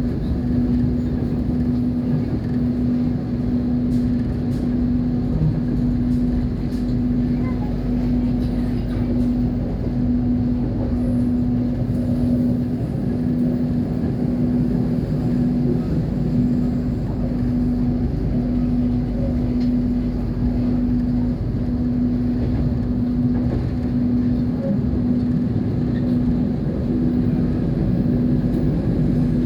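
Passenger train running: a steady low rumble with a constant, slightly pulsing hum.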